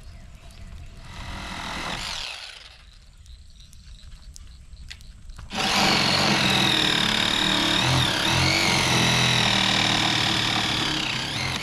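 Old lawnmower's engine running under load as it drags a section of roof: a brief rising swell, then a loud, steady run from about halfway in that stops just before the end.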